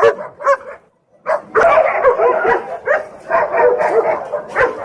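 Several dogs yipping and barking in short, high calls that overlap. There are a few calls at first, a brief pause about half a second in, then a dense run of calls from just over a second in.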